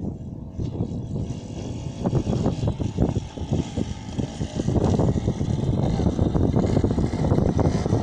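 Motorcycle being ridden, its engine running with a rough, uneven noise that grows louder about two seconds in.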